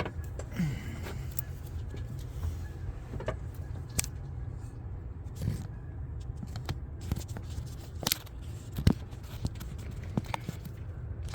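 Scattered clicks, taps and light scrapes of hands handling parts in a car's engine bay, over a steady low hum.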